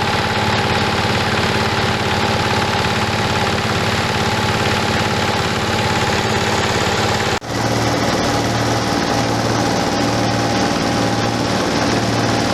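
Rice husk grinding machine running, a steady loud machine drone with a hum of tones over a grinding noise. It breaks off for an instant about seven seconds in, then carries on with a slow throbbing pulse.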